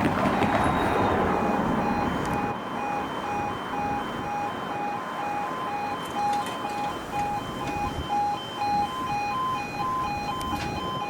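Level crossing's E2S Appello audible warning alarm beeping in a steady repeating pattern, about two tones a second, sounding as the barriers come down. A road vehicle passes early on and fades out.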